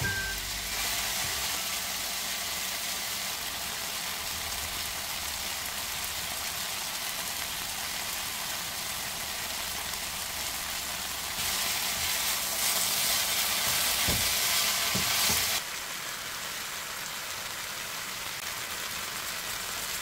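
Julienned potatoes and carrots sizzling as they stir-fry in a wok, a steady hiss that grows louder for about four seconds a little past the middle.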